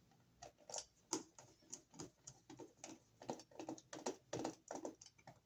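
Irregular run of small clicks and scrapes, a few each second, from a screwdriver and wire being worked at a wall receptacle's ground screw as the ground wire is hooked around it and tightened.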